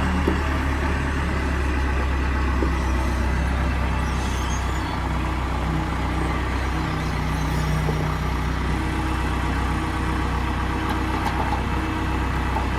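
Vehicle engine running steadily, a low even drone.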